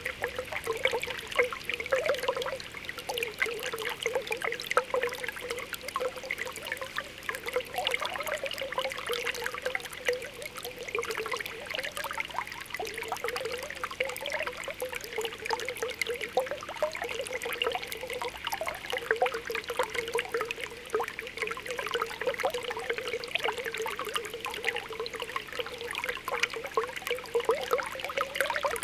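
Spring water welling up from the ground, bubbling and trickling: a continuous gurgle with many small pops.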